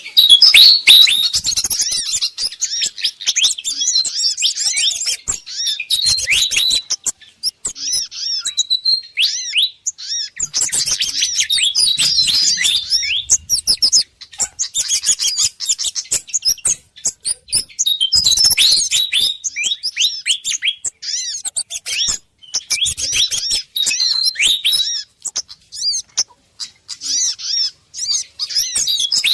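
Excited, rapid chirping and scolding calls of fantails mixed with other small songbirds' calls, the agitated chorus used as a bird lure. The calls come in busy bouts of a few seconds with brief pauses between them.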